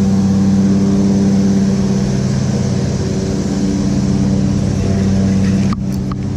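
A motor running steadily with a low, even hum over a hiss of rushing water. The hum drops about six seconds in, and a few sharp clicks follow.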